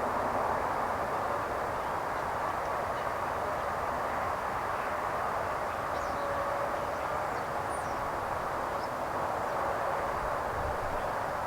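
Steady outdoor background noise: a constant, even rushing hiss with no breaks, and a few faint high chirps about six to nine seconds in.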